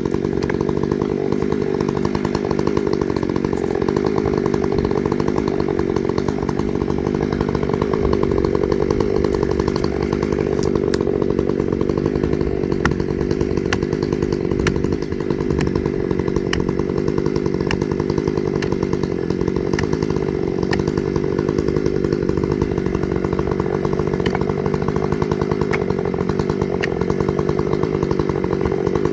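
Chainsaw running steadily at an even pitch, without letting off.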